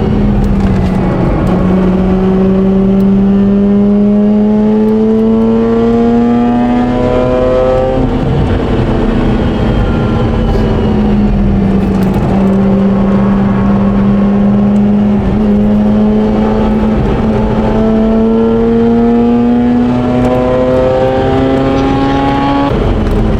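Modified Mazda RX-8's twin-rotor Wankel engine under hard acceleration at speed. The note climbs through the revs, drops at an upshift about a third of the way in, then climbs long and steadily again until the revs drop near the end.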